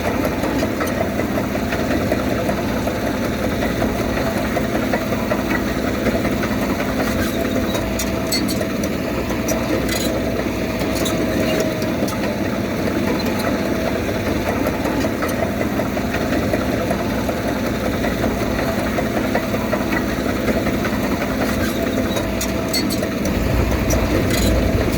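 Diesel engine of heavy earthmoving machinery running steadily, with a few faint clanks about a third of the way in. A deeper low rumble joins near the end.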